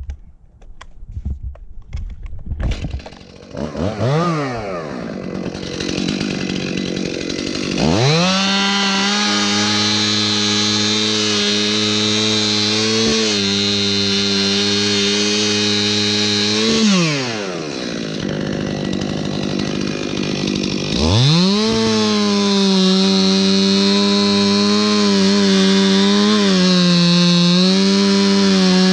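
Chainsaw being handled with a few knocks, revved briefly, then held at full throttle cutting wood for several seconds. Its engine falls back to a lower speed and revs up again into a second cut about twenty seconds in.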